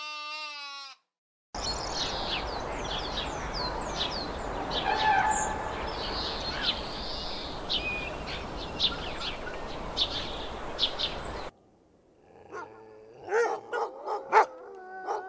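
A sheep's bleat with a wavering pitch ends about a second in. Then many small birds chirp over a steady noisy background for about ten seconds. Near the end, a Shiba Inu gives short whines and yips.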